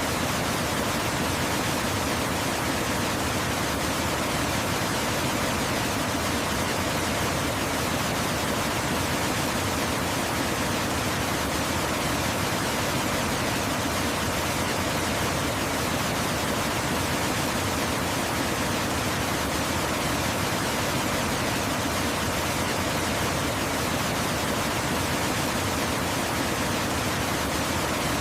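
Waterfall rushing steadily, an even hiss-like roar of falling water with no changes or separate sounds.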